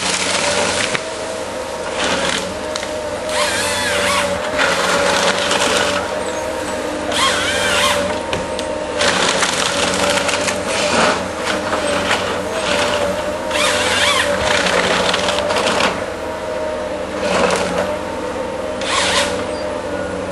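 Forestry harvester working: its engine runs steadily while its head saws and breaks wood in repeated bursts of cutting and crackling, each lasting a second or two, as it fells a tree and cuts it into lengths.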